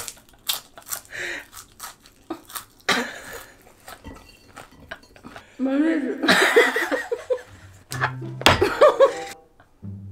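A person crunching and chewing an edible insect, a run of crisp crunches in the first few seconds. Then laughing and exclamations, and a short steady low tone near the end.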